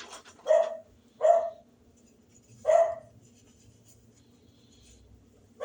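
A dog barking: three short barks in the first three seconds, then a pause.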